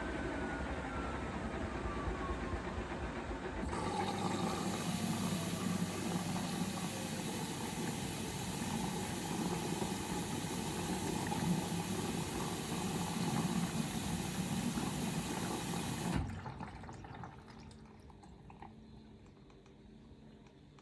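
Bosch Serie 4 washing machine whose drum motor whine is falling as an intermediate spin winds down. About four seconds in, a loud rush of water starts as the machine fills for the next rinse, then stops abruptly about four seconds before the end.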